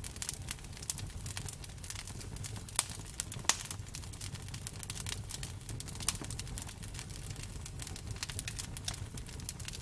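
Wood fire burning with irregular sharp crackles and pops over a low steady rumble, a few louder pops near the middle.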